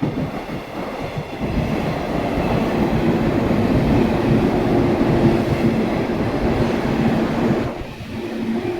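A train passing close by: a loud rumble of wheels on rail with a steady hum, building up, peaking in the middle and easing off near the end.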